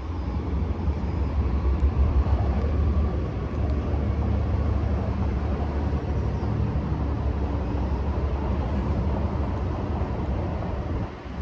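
Diesel locomotives of an approaching BNSF freight train: a steady low rumble that eases off abruptly just before the end.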